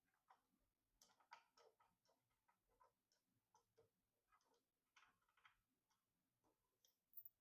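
Faint, irregular small clicks and taps of PC parts being handled during assembly, spaced unevenly with a few quick clusters.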